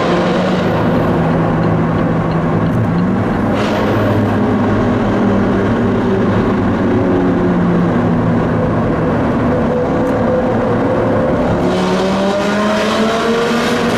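Supercar engine running at speed, heard from inside the cabin while driving through a road tunnel. Its pitch holds fairly level, then climbs over the last few seconds as the revs rise.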